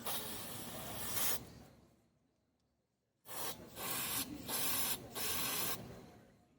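Aerosol parts cleaner hissing out of the can in two long sprays about two seconds apart, the second broken into three or four short blasts, as fuel injectors are flushed clean.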